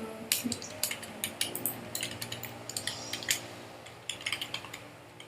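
Irregular sharp clicks and taps of a computer keyboard and mouse, a few a second, over a faint steady hum.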